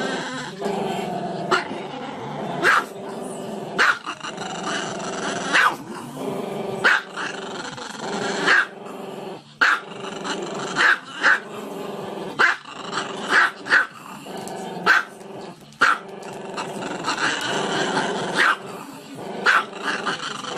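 A dog growling steadily, broken by short sharp barks about once a second.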